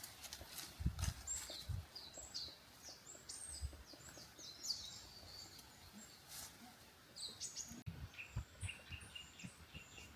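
Small birds chirping: many short, high calls, some in quick runs, overlapping throughout, with soft low thuds underneath.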